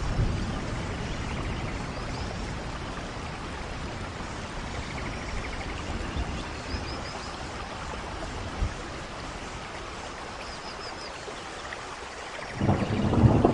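Steady rain falling, with thunder rumbling in low and loud about a second before the end.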